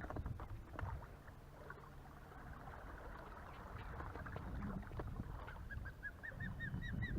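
A bird calling close by in a quick run of short, repeated high notes, about five a second, starting about five and a half seconds in. Before that there is only a low rumble with a few faint knocks.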